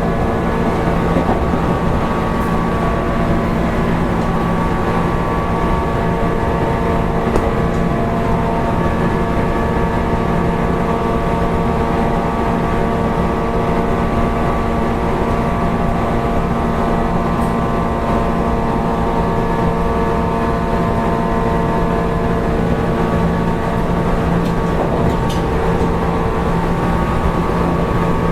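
Running sound of a JR East 185 series EMU motor car (MoHa 184) at steady speed: a steady motor and gear hum of several even tones over the rumble of the wheels on the rails.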